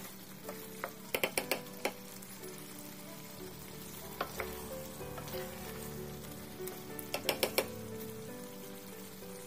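Chicken pieces in spice paste sizzling in a metal pot as they are stirred with a spatula, with two quick runs of clicks from the spatula against the pot, about a second in and again near the end.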